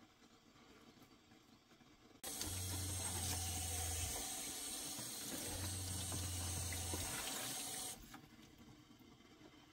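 Water running, starting suddenly about two seconds in and stopping suddenly about six seconds later, with a low hum coming in twice while it runs.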